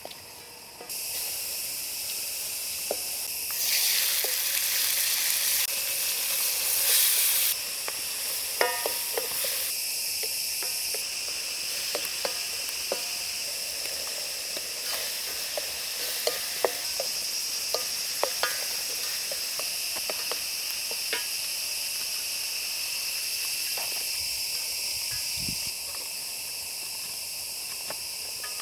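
Food frying in hot oil in a pan: a steady sizzle, louder from about four to seven seconds in, with scattered clinks and scrapes of a utensil stirring.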